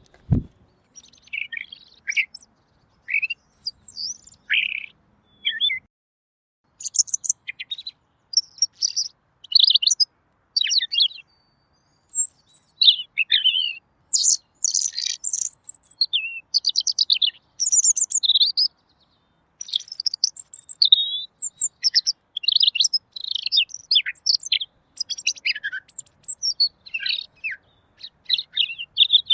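Red-billed leiothrix (Pekin robin) singing a long, varied song of quick whistled phrases and rapid chattering trills, with short pauses between phrases.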